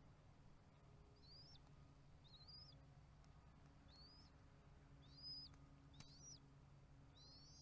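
A bird giving short, high chirping calls, each rising then dropping off sharply, six of them about a second apart, faint over a steady low hum.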